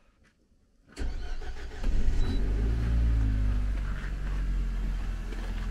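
A car engine starting in freezing cold, about a second in: its revs rise briefly, then settle into a steady idle.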